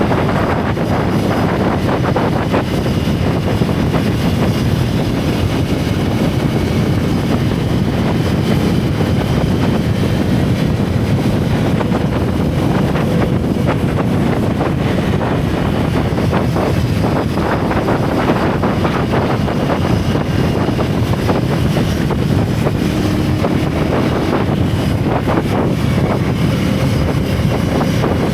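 Single-cylinder motorcycle engine and exhaust running at a steady cruise while riding, heavily mixed with wind rushing over the rider's camera microphone.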